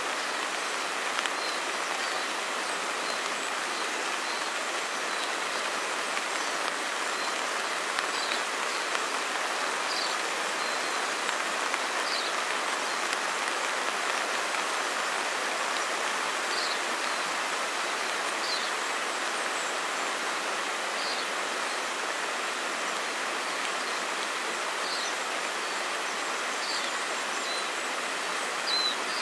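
Steady rushing of a river mixed with falling rain, even and unbroken, with short high chirps every couple of seconds.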